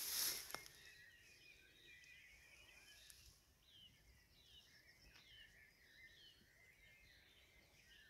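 Faint birdsong outdoors: a run of short chirping notes repeated about every half second, after a brief rush of noise that cuts off about half a second in.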